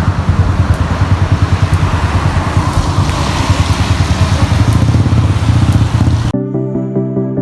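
Rain hiss on a wet street with the low rumble of a passing motor vehicle. The street sound cuts off suddenly about six seconds in, and calm background music takes over.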